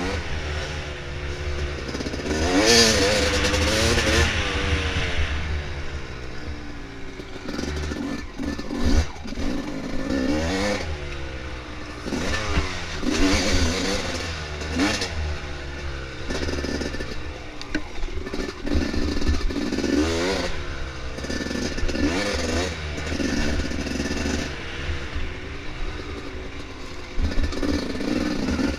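Dirt bike engine revving up and down over and over as the throttle is worked on a trail ride, with scattered clattering knocks.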